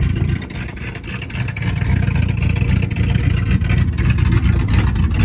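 1979 Ford F-250's engine running just after a cold start. The level dips for about a second early on, then picks back up and holds steady.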